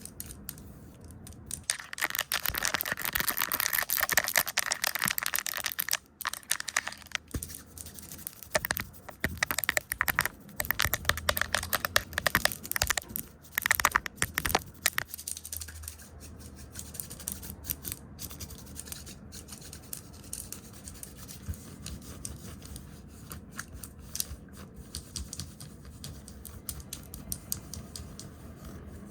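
Fast, close-miked ASMR brushing, scratching and tapping. A dense rush of rapid scratchy brushing runs for a few seconds, then gives way to quick crackly taps and scratches, and after about half the time it settles into a softer, quieter rustling with scattered clicks.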